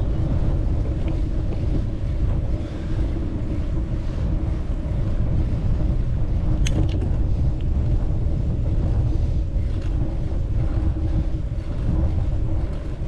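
Wind buffeting the microphone, a heavy steady rumble with a faint steady hum beneath it and a single sharp click about seven seconds in.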